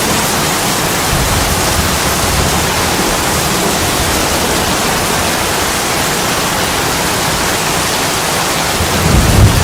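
Steady heavy rain pouring on window glass, an even hiss. Near the end a low rumble of thunder starts.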